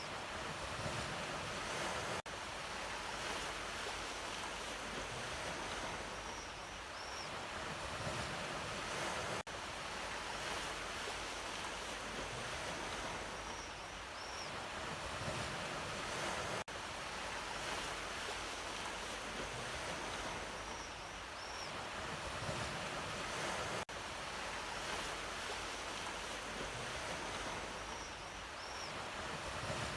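Ocean waves washing in and out as a steady surf, swelling and easing gently. The recording is a short loop that repeats about every seven seconds, with a brief drop in sound at each seam.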